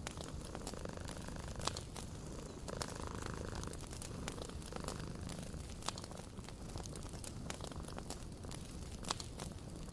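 Wood fire crackling in a fireplace, irregular sharp pops and snaps over a steady low rumble.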